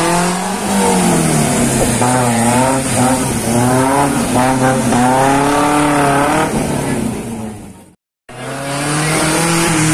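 Car engine revving up and down over and over as it is driven through a slalom course. The sound cuts out briefly about eight seconds in, then the engine carries on.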